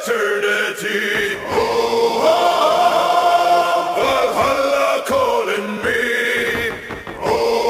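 Music: a choir chanting in held, drawn-out notes, part of an epic Norse-style song.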